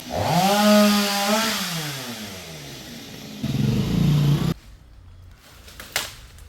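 Two-stroke Stihl chainsaw revved hard, its pitch gliding down over the next couple of seconds, then a shorter, lower rev that cuts off suddenly about four and a half seconds in.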